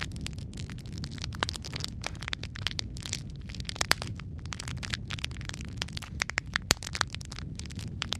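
Logs burning in a fireplace, crackling with many sharp pops over a steady low rumble of the flames; a few pops stand out louder, one about four seconds in and another near the end.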